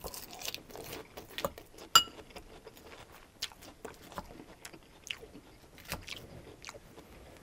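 Close-up crunchy chewing of crisp iceberg lettuce salad, with many small wet crunches and mouth clicks. A metal fork clinks once with a short ring about two seconds in, and the fork later scrapes through the salad in a glass bowl.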